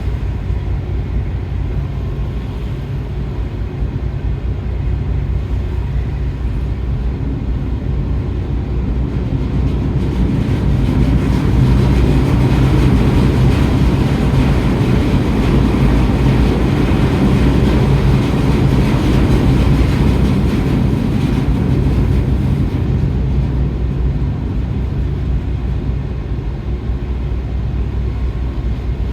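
A large car ferry's engines running with a steady low drone, swelling louder for about ten seconds in the middle and then easing back, as the ship manoeuvres toward its berth.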